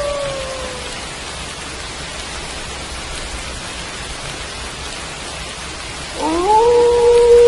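Steady rain with wolf howls. One howl trails off, falling in pitch, in the first second, and a new howl rises steeply about six seconds in and then holds a steady pitch.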